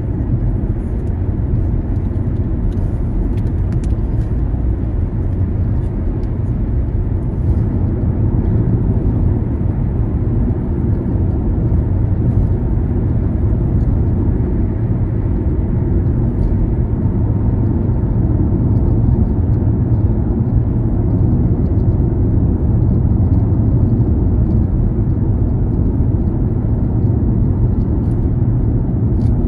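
Car driving along a road: a steady low rumble of engine and tyre noise that barely changes.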